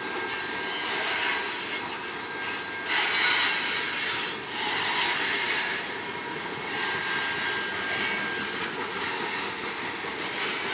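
Freight train cars rolling past: a steady rumble and rattle of wheels on rail, with a thin, high wheel squeal running through it. The sound swells louder about three seconds in and again around five seconds.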